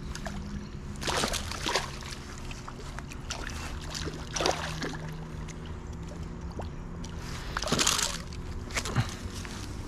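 Water splashing and sloshing in several short bursts, the biggest about eight seconds in, over a steady low hum.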